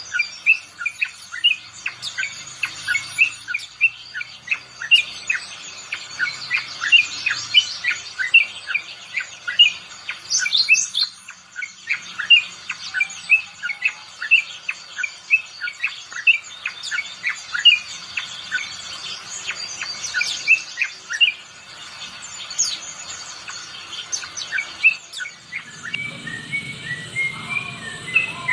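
Yellow-vented bulbul singing a long run of short chirping notes, several a second, thinning out near the end.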